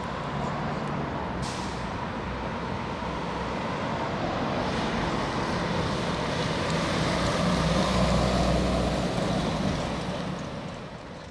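Heavy fire truck engine running as it passes, growing louder to a peak about eight seconds in and then easing off, with a short air hiss about a second and a half in.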